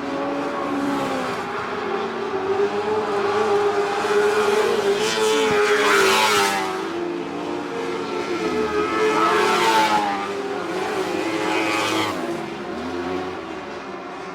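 A pack of lightning sprint cars racing on a dirt speedway: several engines revving up and easing off through the corners, each pitch rising and falling. It is loudest twice, as cars pass close by about six and ten seconds in.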